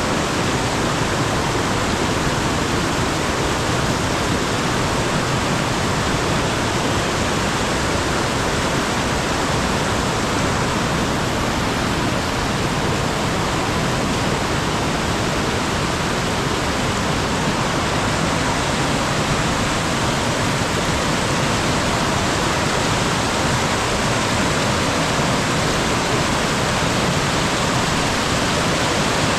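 Mountain stream rushing over rocks: a loud, steady, unbroken water roar.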